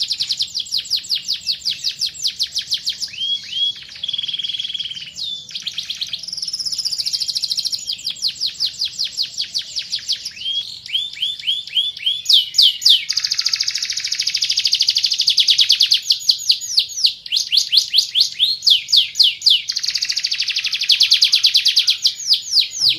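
Domestic canary singing a continuous song of fast trills and rolls. Each rapid repeated phrase gives way to the next every second or two.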